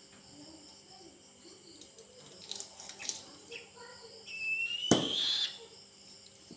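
Young eagle's thin, whistled call, rising in pitch, once about four seconds in, with a sharp click in the middle of it. A few fainter clicks come shortly before.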